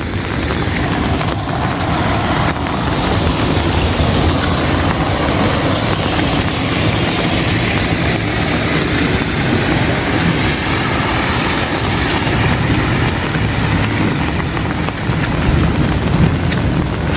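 Heavy rain falling steadily, with a low continuous rumble underneath.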